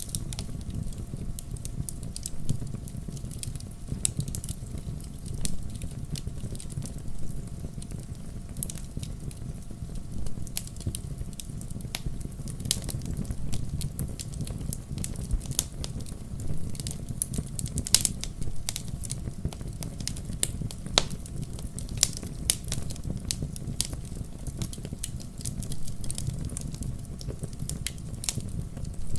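Wood campfire crackling, with irregular sharp pops over a steady low rumble of the flames; one pop about eighteen seconds in is the loudest.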